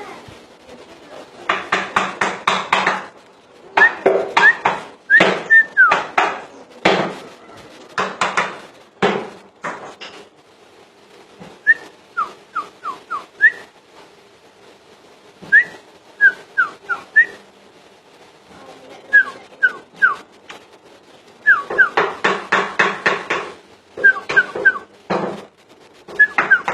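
Cucak ijo (green leafbird) in full song: bursts of rapid, harsh chattering notes alternating with short, sharp whistled notes that slide down in pitch, repeated in phrases with short pauses between.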